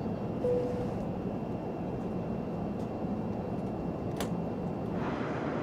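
Steady drone of a jet airliner's cabin in flight, with a brief tone about half a second in and a single click about four seconds in; the noise changes character about five seconds in.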